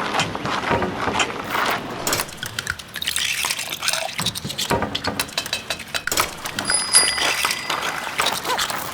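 Liquid sloshing and dripping with many quick clicks and clinks, and a short high ringing tone about two-thirds of the way through.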